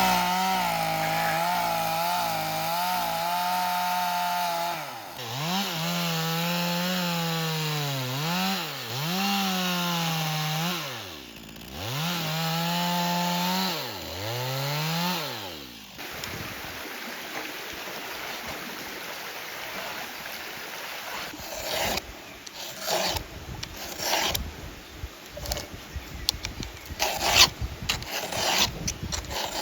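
Two-stroke chainsaw running at high revs, its pitch dropping and recovering four times as it cuts. It stops about halfway through, and irregular scraping and rubbing with sharp knocks follow.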